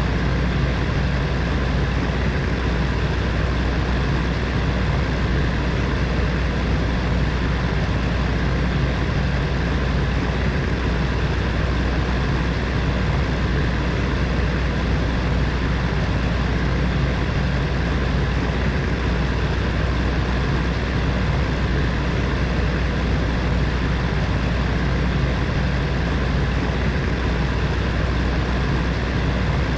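Space heater's fan running steadily: an even whooshing of moving air over a low hum.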